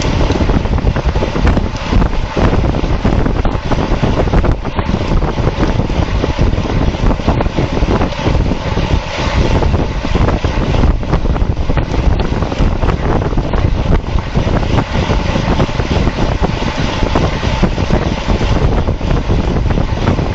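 Steady, loud wind rush buffeting a bike-mounted camera's microphone as a road bike is ridden at racing speed.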